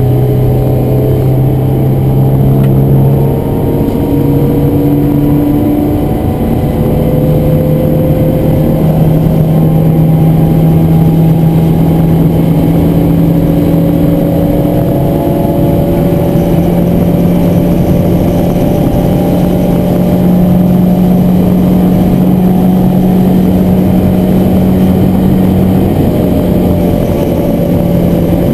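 Ford Escort Mk1 1100's four-cylinder engine running hard on a race circuit, heard from inside the cabin. The note is loud and steady, steps up in pitch about three seconds in, then holds high revs with only small rises and falls through the bends.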